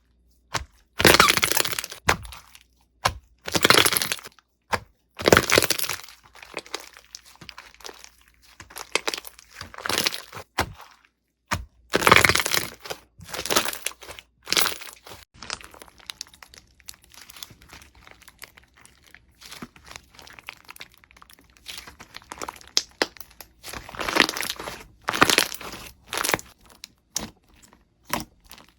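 Crunchy slime being squeezed and pressed by hand, giving loud crackling bursts every second or few, with quieter crinkly crackles between them.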